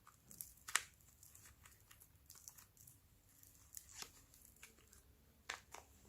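Slime being squished and stretched by hand, giving soft sticky crackles and scattered clicks, the loudest a little under a second in.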